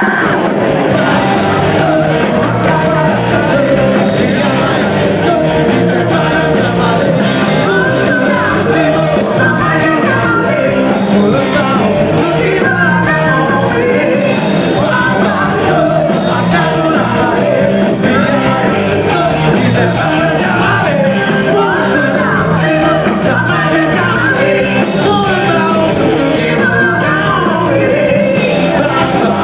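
Live rock band playing with a lead singer, loud over a concert sound system.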